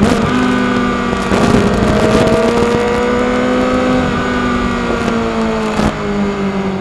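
Sport motorcycle engine running at a steady, nearly level pitch while riding at speed, with small rises and dips in revs and a rush of wind noise over it.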